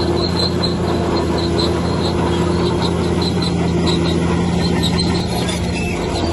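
Heavy earthmoving machine's diesel engine running steadily, with a rhythmic high squeak about five times a second over it.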